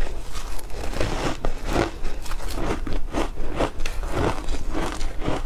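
Ice being bitten and crunched between the teeth in steady, repeated crunches, about two to three a second.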